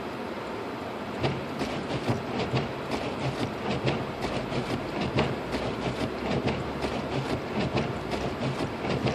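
Road noise inside a car driving on a snow-covered road: a steady low hum, with irregular knocks and crackles of snow and slush under the tyres starting about a second in.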